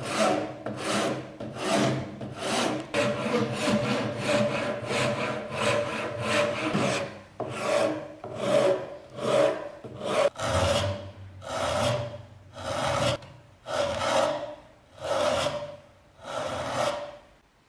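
Rhythmic back-and-forth rasping of hand abrading, a file or abrasive drawn over a part in even strokes, with a ringing note under each stroke. The strokes start at about one and a half a second, slow to about one a second in the second half, and stop just before the end.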